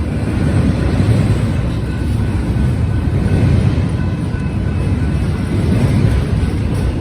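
BNSF intermodal freight train rolling past, a loud, steady low rumble with faint thin squeals from the wheels.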